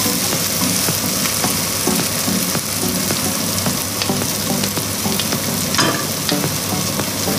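Blended spice paste (bumbu) sizzling as it fries in oil in a nonstick pan, with a wooden spatula scraping and stirring through it in many small ticks. The paste is being cooked down until its moisture is gone and only the oil is left.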